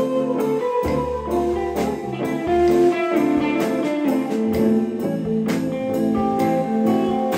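Live band music at a jam, with a guitar prominent among the instruments.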